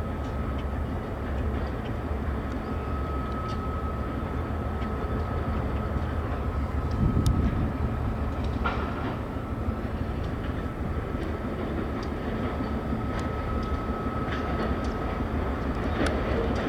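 Freight train's cars rolling past on the rails: a steady low rumble with a thin, steady high whine and scattered clicks, and a heavier knock about seven seconds in.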